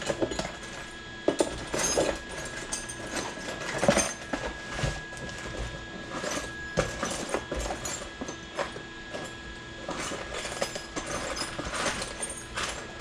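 Irregular metal clinks and knocks of hand tools and parts being handled at an engine bench, over a faint steady hum.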